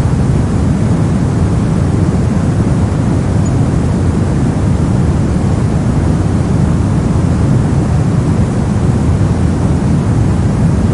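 Steady, unbroken white-noise track, a constant even hiss-like rush that is heaviest in the low end and has no changes or events.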